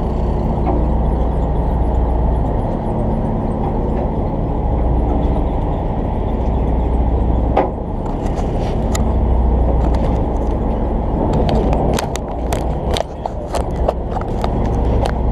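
A boat engine running steadily with a low drone. From about halfway through, scattered sharp clicks and knocks sound over it.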